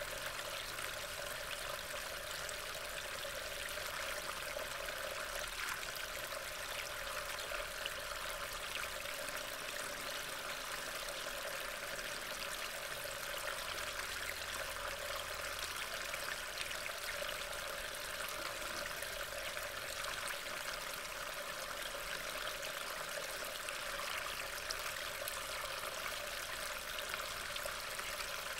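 Steady rain falling in woodland: an even hiss with faint scattered patters.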